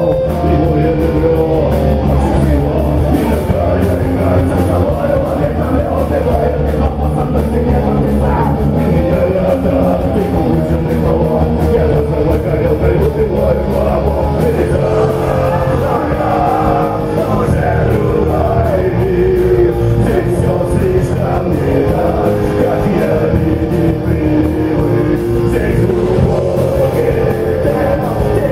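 Live rock music: a band playing with electric guitars, bass and drums, with singing.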